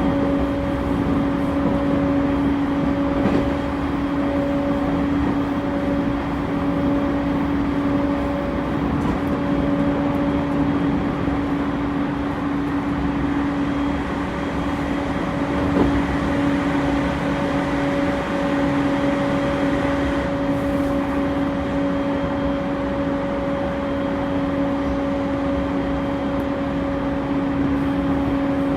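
Running sound inside a JR East E231-0 series commuter train at steady speed: wheel and rail noise under a steady two-note hum that stays at one pitch.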